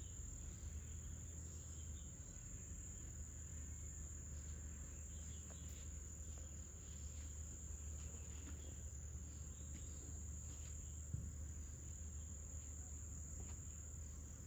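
Insects trilling in one steady, unbroken high-pitched drone, over a low steady hum. A single short knock about eleven seconds in.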